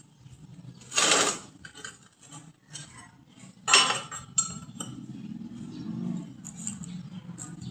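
Metal pieces clinking and scraping as they are handled, with two louder scraping strokes, one about a second in and one about midway. A steady low hum comes in a little after the middle.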